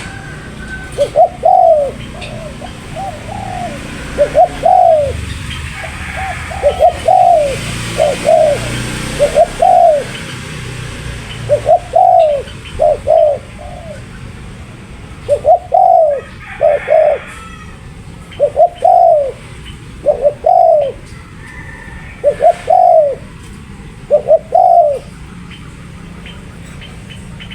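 Spotted dove (tekukur) cooing over and over in short phrases of two or three notes, a phrase every second or two.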